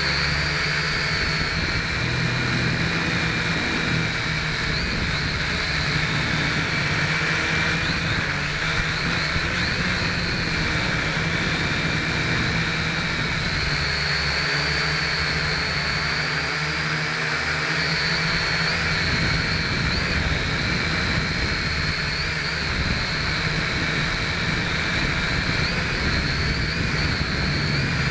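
Small quadcopter's brushed motors and propellers whining steadily, heard close up from a keychain camera carried on board. The whine's pitch wavers up and down with throttle changes.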